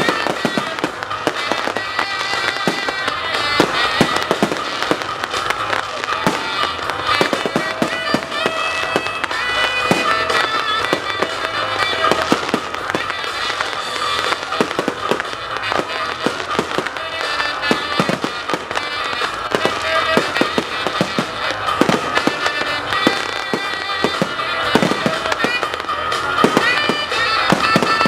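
Fireworks display: a continuous run of bangs and crackling bursts, with music playing under them.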